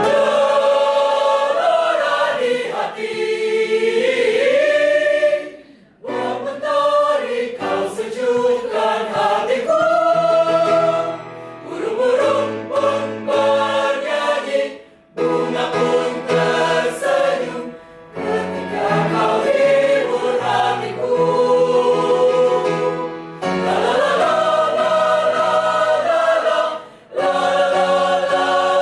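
A choir singing in several parts at once. The phrases break off briefly every few seconds between lines.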